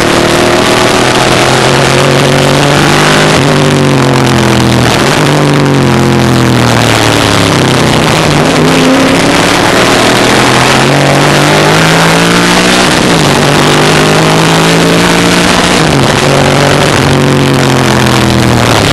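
1963 Ford Falcon Sprint's V8 race engine at full throttle, heard from inside the car. The engine note climbs hard and then drops away several times as the car accelerates, shifts and lifts for corners.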